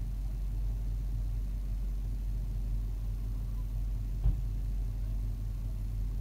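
Vehicle engine idling steadily, heard from inside the cabin, with one dull thump about four seconds in.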